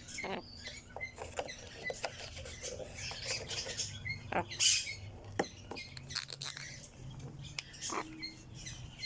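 Birds chirping briefly here and there among scattered small clicks and crackles, like something being chewed or pecked.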